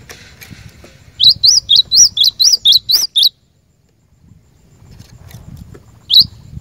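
Cinereous tit (glatik batu) singing: a quick run of about nine identical high whistled notes, each rising then falling, about four a second, then one more note near the end.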